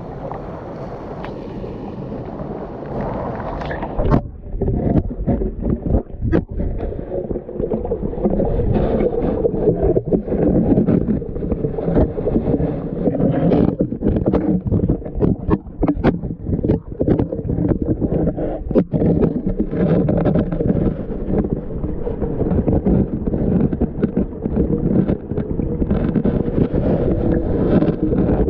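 River water sloshing and gurgling close to the microphone, with many short knocks and bumps; it becomes choppier about four seconds in.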